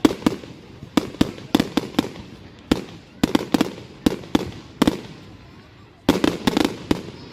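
Fireworks going off: an irregular series of sharp bangs, a few a second, with a dense cluster of rapid bangs about six seconds in.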